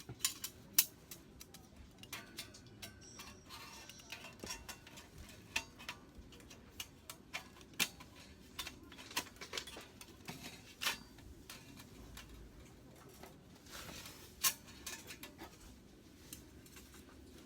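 Irregular clicks and taps of chopsticks and tableware against bowls and pans during a meal, a few louder knocks among many light ones.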